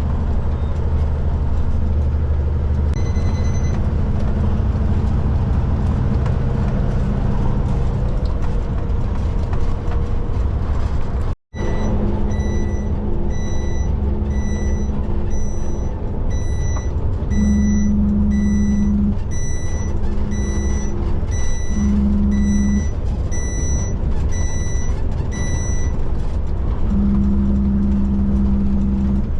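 Heavy truck engine running, with a reversing alarm beeping about once a second for roughly fourteen seconds in the second half. The sound cuts out for an instant about eleven seconds in.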